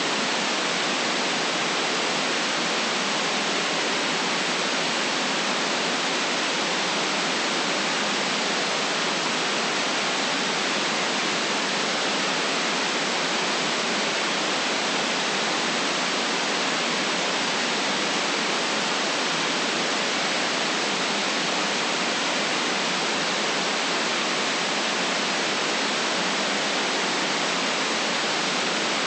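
Electronically generated white noise: a steady, unvarying hiss with no deep bass and the highest treble cut off.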